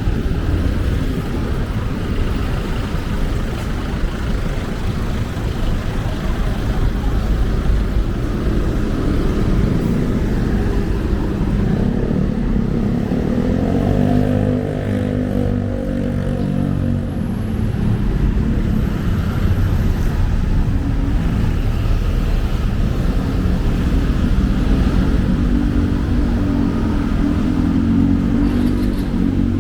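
City street traffic: a steady rumble of passing cars, with one vehicle's engine hum coming up and passing about midway, and another near the end.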